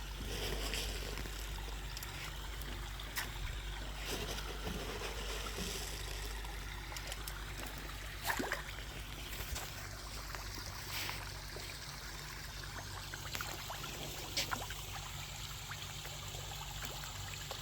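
Koi pond waterfall: water trickling and splashing steadily, with a few brief sharp sounds scattered through it.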